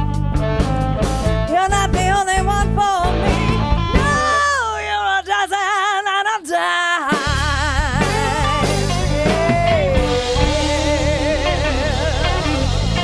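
Live blues band playing an instrumental passage, a lead line bending and wavering with vibrato over the band. About four seconds in the bass and drums drop out for roughly three seconds while the lead holds a long bent note alone, then the full band comes back in.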